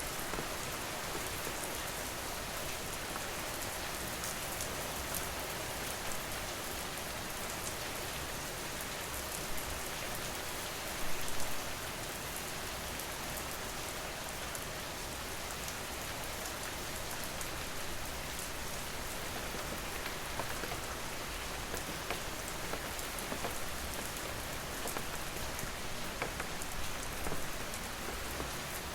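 Steady rain falling, with many individual drops ticking sharply through the even hiss. A brief, louder spatter comes about eleven seconds in.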